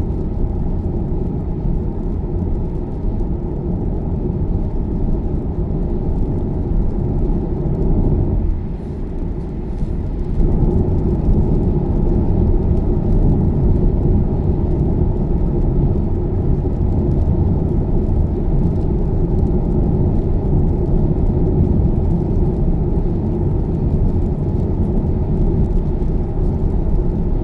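Steady road and tyre noise heard inside the cabin of a Tesla electric car cruising on the motorway, with no engine note. The noise dips briefly about nine seconds in, then returns a little louder.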